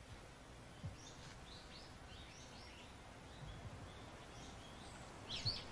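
Faint chirping of small birds, short high chirps scattered throughout with a brighter run near the end, over a low background hum of outdoor noise. A few soft low thumps come about a second in, midway and near the end.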